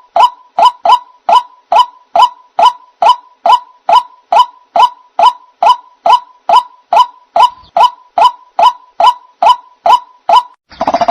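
White-breasted waterhen (ruak-ruak) call, the bird-trapping lure sound: one short note repeated steadily about three times a second. The run breaks off near the end, and a busier run of overlapping calls starts.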